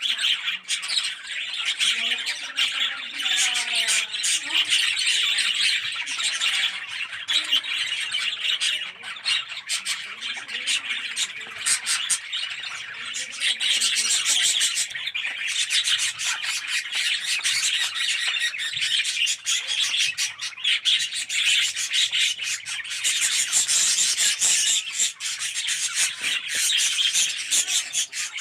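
A colony of budgerigars chattering and squawking together in a dense, continuous chorus.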